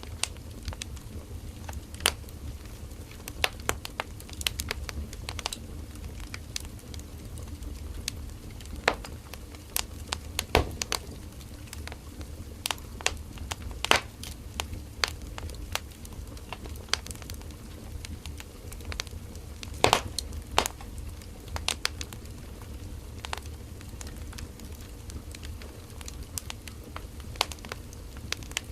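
Firewood burning in a campfire, crackling with irregular sharp pops and snaps over a steady low rumble of the flames.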